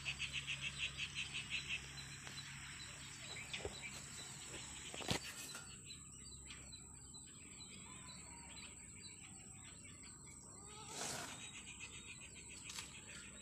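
Faint bird calls in open countryside: a quick run of repeated chirps, about seven a second, for the first couple of seconds, then scattered soft chirps with a single click about five seconds in.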